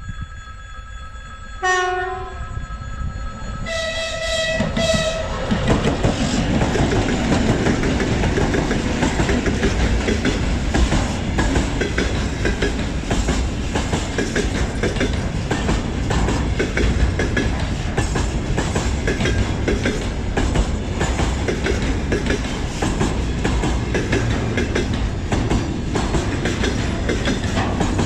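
2TE116 diesel locomotive sounding its horn: a short lower blast about two seconds in, then a longer, higher blast. It then passes close by with its freight train, wheels clattering rhythmically over the rail joints.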